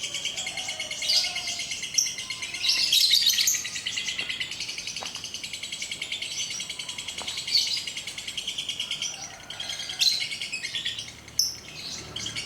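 Lovebird singing a long, unbroken, fast chattering trill (the "ngekek" that keepers time in minutes), with louder chirps from other caged birds breaking in several times.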